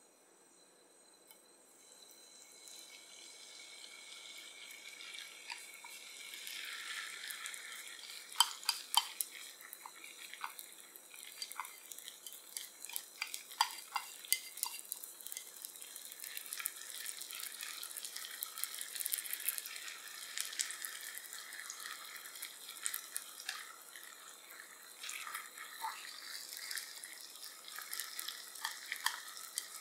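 Kimchi pancake batter sizzling in hot oil in a non-stick frying pan: a hiss that starts about two seconds in and grows louder, with many sharp crackles and pops from about eight seconds on.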